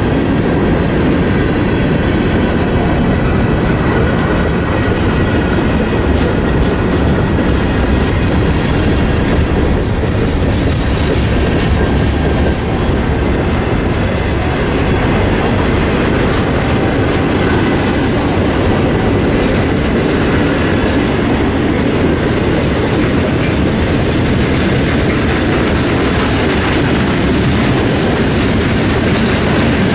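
Freight train of covered hoppers and boxcars rolling past at close range: a steady loud rumble of steel wheels on rail, with the clickety-clack of wheels passing over rail joints.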